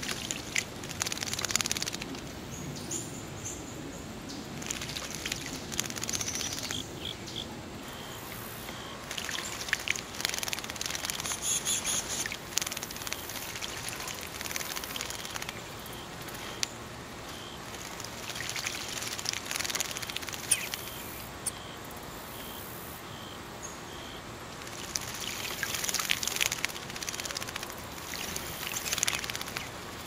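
Bluebirds splashing and fluttering their wings in a shallow bird bath, in several separate bursts. Between the bursts a bird gives a short high call about once a second.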